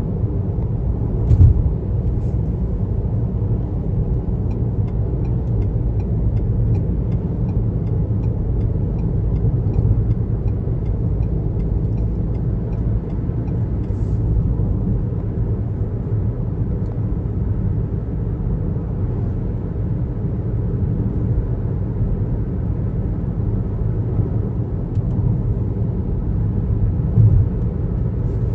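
Car driving on a highway: steady low rumble of tyres and engine, with a thump about a second and a half in and another near the end. Faint regular ticking, about two a second, runs for several seconds in the first half.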